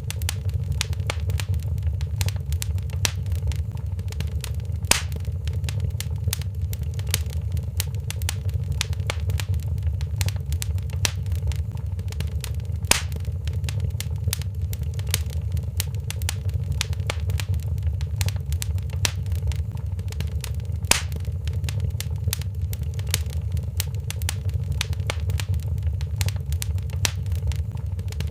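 Wood fire in a fireplace crackling: a steady low rumble under constant small crackles, with a sharper, louder pop about every eight seconds.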